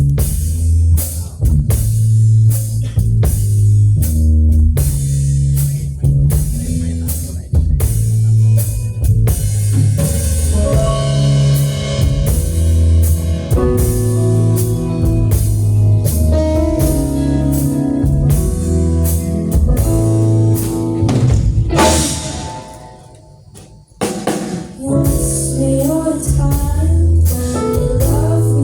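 Live rock band playing a song's intro: drum kit and a heavy bass line, with guitar or keyboard lines joining about ten seconds in. Near the end a cymbal wash leads into a brief near-stop before the band comes back in.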